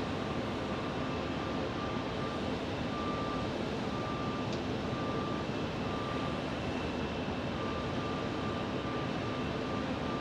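Jet airliner engines running at an airport, a steady noise with a faint whine in it that comes and goes.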